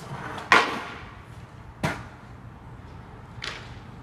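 Skateboard clacking against the ground: three sharp knocks, the first about half a second in and the loudest, then two lighter ones.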